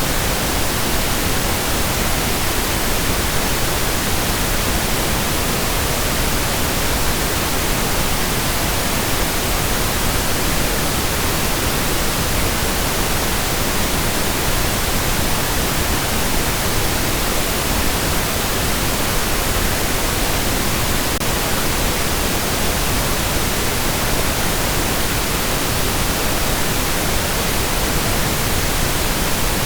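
Steady synthetic pink noise: an even, unchanging hiss across the whole range, fuller in the low end than white noise.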